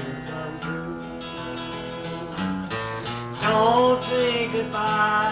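Country song played on a strummed acoustic guitar, with a wavering melody line, sung or played, held loudest about three and a half seconds in.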